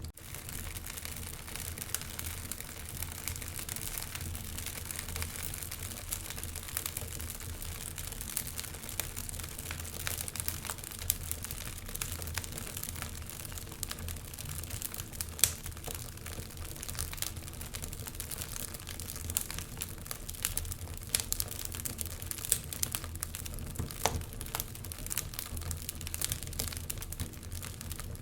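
Wood fire crackling steadily in a fireplace, with frequent sharp pops and snaps and one louder pop about halfway through.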